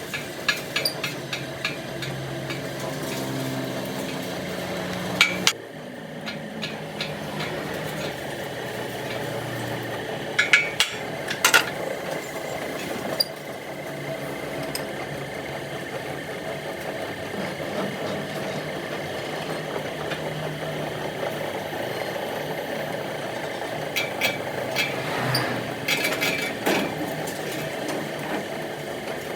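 Scattered hammer blows and metal knocks on a steel truck wheel rim, a few at a time, over a steady mechanical hum.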